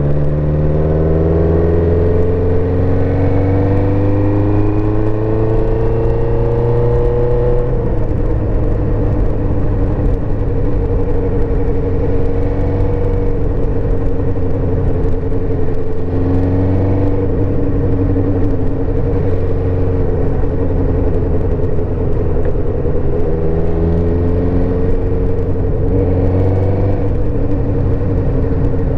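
Suzuki GSX-R400's inline-four engine pulling in gear on the move: rising in pitch over the first several seconds, then holding a steady speed with a few gentle rises and falls, over constant road and wind noise.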